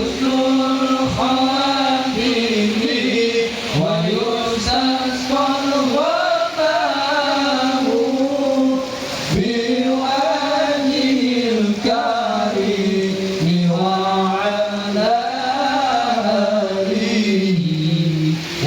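A man chanting a sholawat, the Arabic devotional praise of the Prophet, in long, drawn-out melodic phrases. The notes are held and slowly bent up and down, with only brief breaks between phrases.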